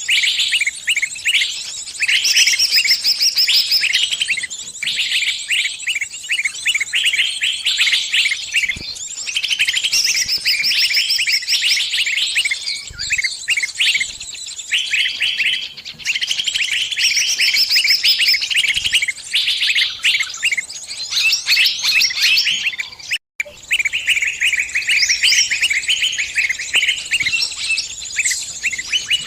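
Bird distress calls: a trapped bird giving rapid, shrill chirps almost without pause, as it calls to its flock for help. The calling breaks off for an instant about two-thirds of the way through, then resumes.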